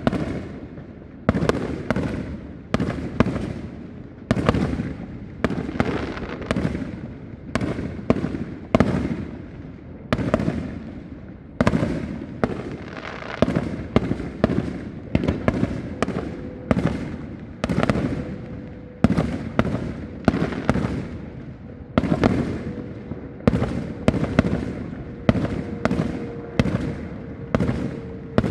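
Aerial fireworks display: a steady run of booming bursts about once a second, each trailing off in a rumbling echo. A faint steady hum joins in about halfway through.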